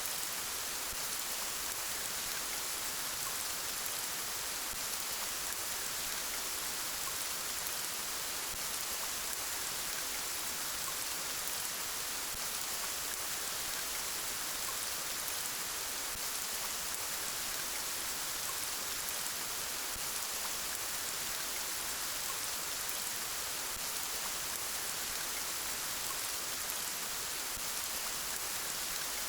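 Steady soft rain falling, an even hiss with no change in level.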